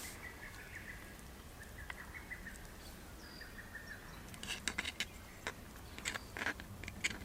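Wild birds calling faintly in a birch forest: a thin run of short repeated notes, then a brief higher whistle. In the second half there are several sharp clicks or snaps, the loudest sounds here.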